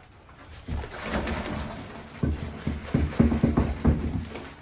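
Dry thinset mortar powder being poured from its bag into a bucket of water, with a soft hiss followed by a quick run of dull knocks as the bag is shaken and tapped empty.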